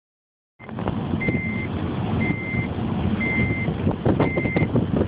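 A vehicle's reversing alarm beeping steadily, one high beep about every second, over a loud low rumble with scattered knocks.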